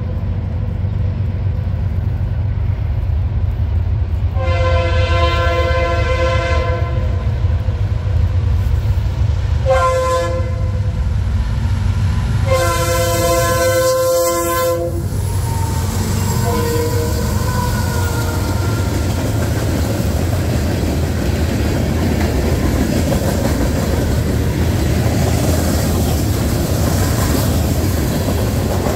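Norfolk Southern freight train's diesel locomotives approaching, the lead unit sounding its multi-chime air horn three times: a long blast about four seconds in, a short one near ten seconds and a long one around thirteen seconds, over the steady low engine rumble. After the horn, the locomotives and cars pass with rising wheel-on-rail rolling noise.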